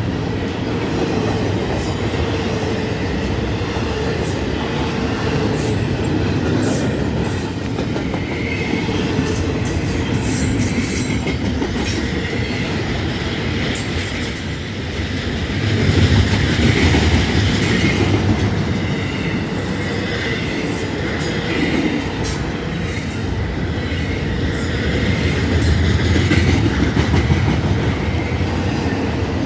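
Freight train cars rolling past at speed, a steady rumble of wheels on rail with intermittent short high-pitched wheel squeals.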